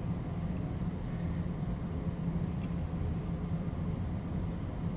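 Heavy thunderstorm rain heard from indoors: a steady, even rushing noise, mostly low and muffled, with no thunderclap.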